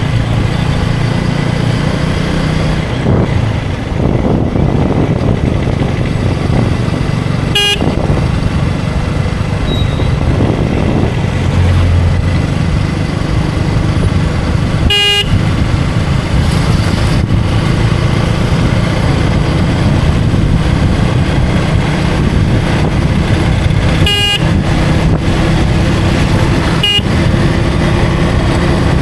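KTM Duke 250 single-cylinder motorcycle engine running steadily under way, with wind and road noise, while a vehicle horn gives four short toots.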